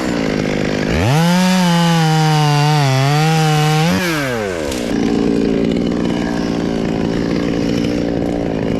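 Gasoline chainsaw revved to full throttle for about three seconds, its pitch sagging and wavering as it cuts into very hard Australian pine wood. It then drops back and runs on at a lower, steady speed.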